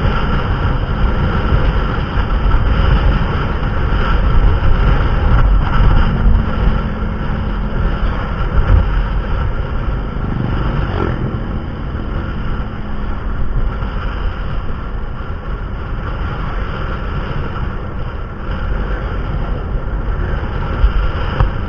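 Steady rumble of a moving motor vehicle, its engine and road noise running continuously with wind on the microphone.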